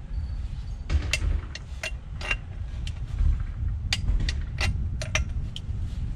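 Scattered sharp metallic clicks and knocks, irregularly spaced, as the bolts of a repair clamp on a water main are tightened, over a steady low rumble.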